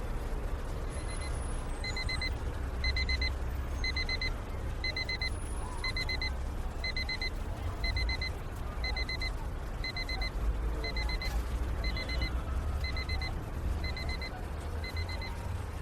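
Electronic alarm beeping: quick groups of four short high beeps, repeating about once a second, over a steady low rumble.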